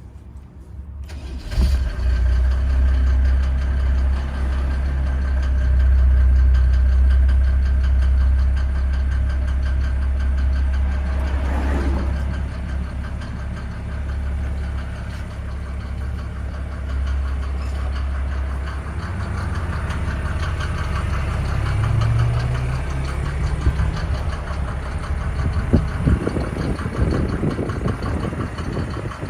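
Mercedes-Benz G350TD's 3.5-litre straight-six turbodiesel starting from cold: it catches about a second and a half in, then runs on at a steady idle.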